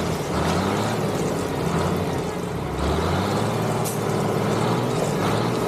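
Diesel engine of a forestry tractor running steadily, its pitch shifting about three seconds in.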